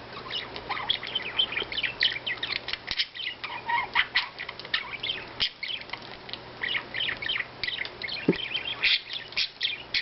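Budgerigar warbling and chattering: a fast, busy run of short chirps and clicks that goes on steadily.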